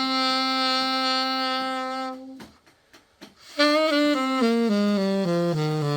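Yanagisawa Prima A-50 alto saxophone played as a test after its full overhaul: one long held note, a break of about a second with a few faint clicks, then a run of notes stepping down into the low register.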